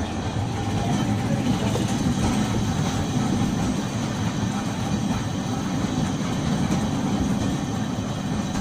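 Nagasaki Electric Tramway 370-series tram, car 377, heard from inside the car: a steady low rumble with no change in level.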